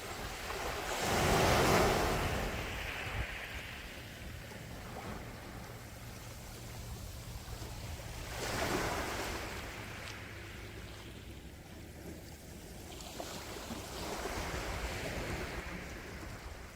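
Sea waves washing onto the shore: a loud surge about a second in, another about halfway through, and a softer one near the end, over a steady low rush of surf.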